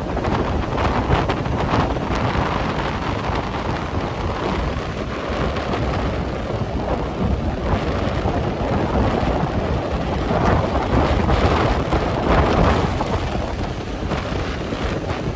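Very strong wind buffeting the microphone: a loud, rumbling roar that swells in gusts about a second in and again past the middle.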